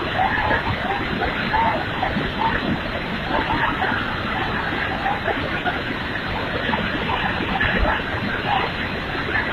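Swollen mountain stream rushing: a steady, dense roar of running water.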